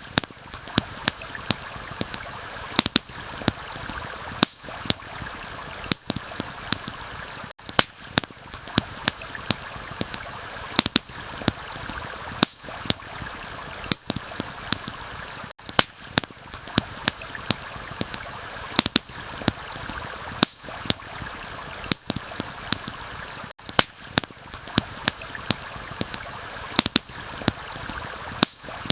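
Campfire crackling with sharp irregular pops, a few a second, over the steady rush of a stream and rain. Brief dips in the sound come about every eight seconds.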